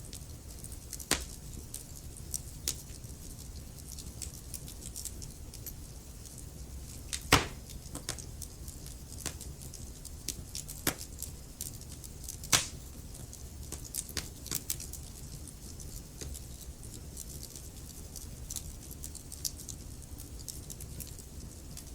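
Wood fire crackling in a fireplace: a steady low rumble of the flames with scattered sharp pops and snaps, three louder cracks about a second, seven and a half seconds and twelve and a half seconds in.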